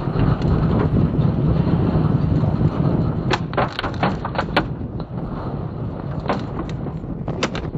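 Violent storm wind blowing hard over the microphone in a dense low rumble. Sharp knocks come about three seconds in and again near the end.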